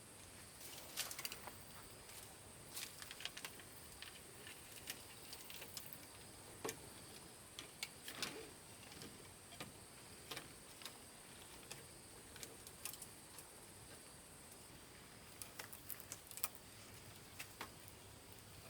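Faint, irregular light clicks and taps, some close together in short runs, over a steady high hiss.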